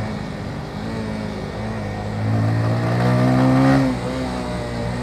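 Motorcycle engine under acceleration: it gets louder and climbs gently in pitch for about two seconds, then drops suddenly just before four seconds in.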